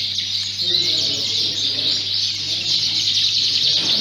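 Many Fife canaries singing at once in their show cages: a dense chorus of rapid, high chirps and trills, with indistinct voices underneath.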